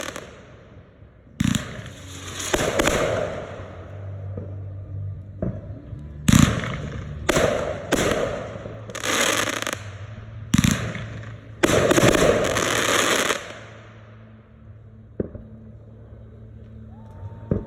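Aerial consumer fireworks bursting: about six loud reports, each followed by a second or two of crackling hiss. Then they die away, leaving a single sharp pop near the end.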